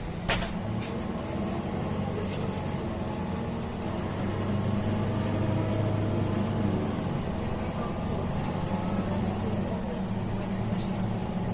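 Inside a MAN A21 city bus under way: its diesel engine drones steadily over road and body noise. There is a sharp knock just after the start.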